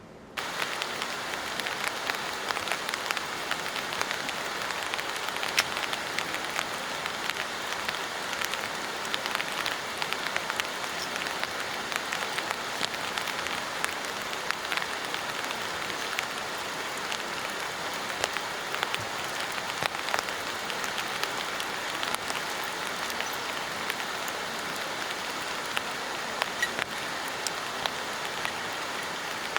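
Steady rain falling, with many separate drops ticking on a surface; it cuts in suddenly about half a second in.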